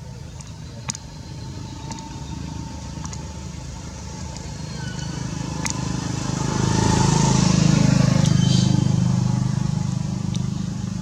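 A motor vehicle engine passing by: its hum grows louder to a peak about eight seconds in, then fades away. A few sharp clicks are scattered through it.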